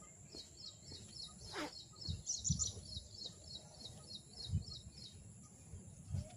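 A bird calling in a rapid, even series of short high chirps, about three or four a second, over faint low rumbling.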